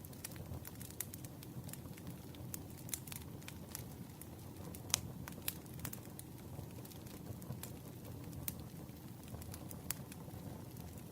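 Campfire crackling: irregular sharp pops and snaps over a low, steady rumble of burning, with the loudest pop about five seconds in.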